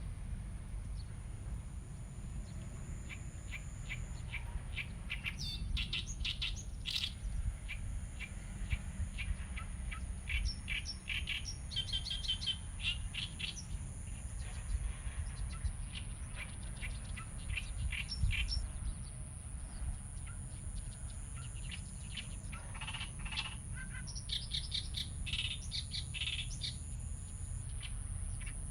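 Outdoor field recording of small birds chirping and calling in short, scattered bursts throughout, over a steady low rumble.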